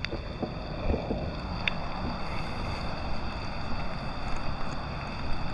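Steady rushing noise of water running through a flooded overflow channel, with a few faint knocks in the first two seconds.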